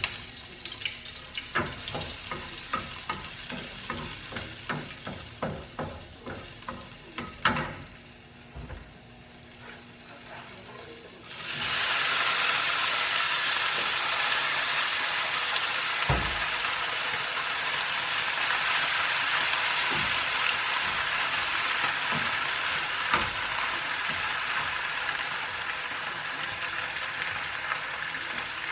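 Garlic crackling in a little hot oil in a frying pan, with short clicks of stirring. About eleven seconds in, a loud, steady sizzle starts suddenly as spinach goes into the hot pan, easing off slowly as it cooks.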